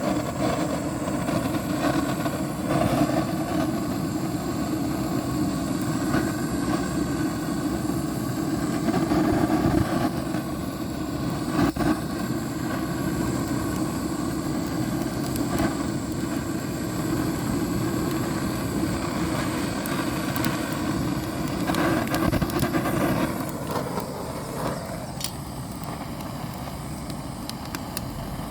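Firewood fire catching and burning: a steady rumble with a few sharp crackles, easing off a little about 23 seconds in.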